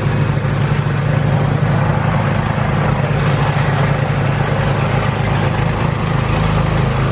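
Snowblower's small gasoline engine running steadily, a loud continuous hum.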